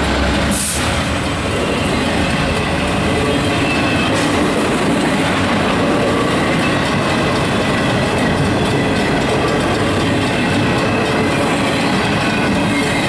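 Freight train passing close by: a steady roar and clatter of steel wheels on the rails as locomotives and intermodal well cars go past. A deep locomotive engine rumble fades about a second in, and there is a brief high-pitched burst just before that.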